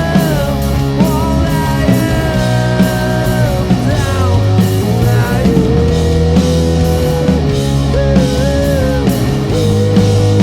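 A live rock band playing a loud grunge song: distorted electric guitar, bass and drums, with a lead melody line that slides and bends over a steady drumbeat.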